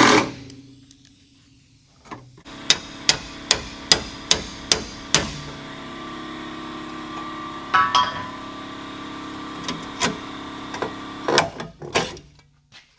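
Hammer blows on car-body sheet metal: a quick run of about eight sharp strikes, then a few scattered knocks, as a damaged rear panel is knocked free. A short loud burst sounds right at the start.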